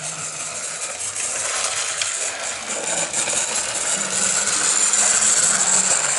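OO gauge model steam locomotive running on the track: its small electric motor whirring and the wheels rattling over the rails, getting louder as it comes closer.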